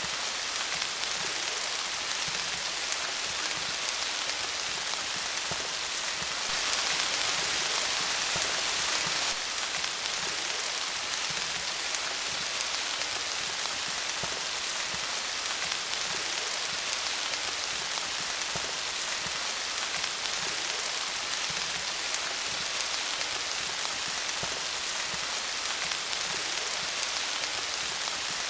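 Steady rain falling on leaves: an even hiss of many drops. It grows a little heavier for a few seconds about a quarter of the way in.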